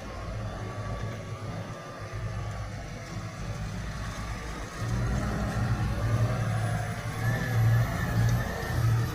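Diesel tractor engine running under load, getting louder about five seconds in and rising and falling in level after that.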